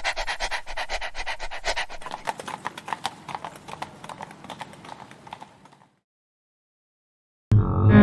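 Horse hooves clip-clopping in a rapid train of hoofbeats that grow sparser and fade out. After a short silence, a loud animal roar begins near the end.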